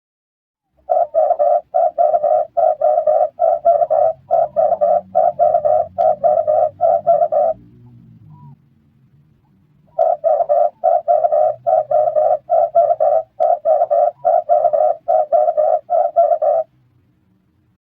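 Red collared dove calling: two bouts of rapid coos, about three a second and evenly repeated, each bout lasting several seconds, with a pause of a couple of seconds between them.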